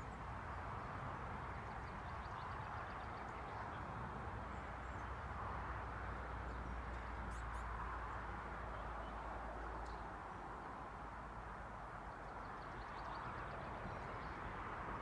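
Faint bird song over steady outdoor background noise, with a quick run of high chirps about two seconds in and another near the end.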